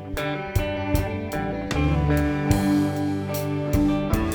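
Live band playing a slow song between vocal lines: electric guitar and bass over a drum kit keeping a steady beat.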